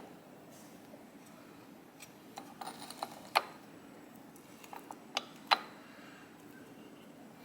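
Loose metal engine parts being handled on a workbench: scattered light clinks, with two sharper metallic clanks about three and a half seconds in and again two seconds later.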